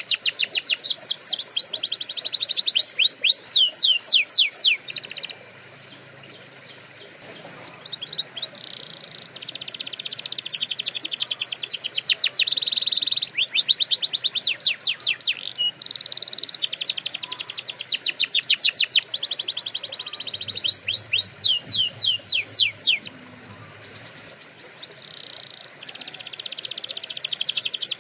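Domestic canary singing: long phrases of rapid trills and quick downward-sweeping notes, broken by two short quieter pauses.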